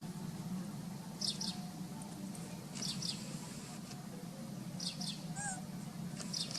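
A bird calling: a short high double chirp, repeated four times about a second and a half apart, over a steady low hum.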